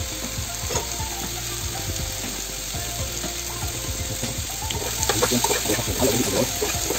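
Diced potatoes sizzling as they fry in a pan, with a metal slotted spoon scraping and stirring through them; the stirring gets louder and busier about five seconds in.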